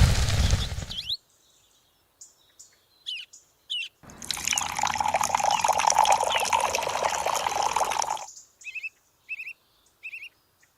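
Small birds chirping in short, repeated rising calls. In the middle, a steady rushing noise lasts about four seconds and then cuts off suddenly.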